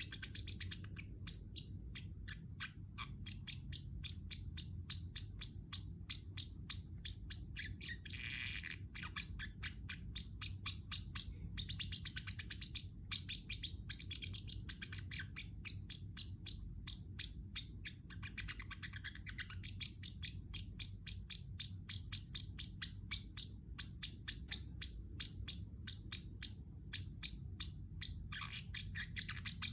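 Pacific parrotlet chirping steadily: a rapid, unbroken run of short, sharp chirps, several a second, with a few brief busier bursts.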